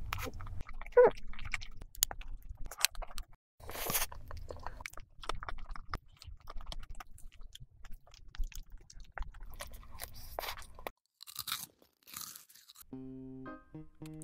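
Close-miked eating sounds: bites, chewing and crunching of cream-filled bread and layered cake, in short cuts one after another. Near the end a simple tune with steady notes begins.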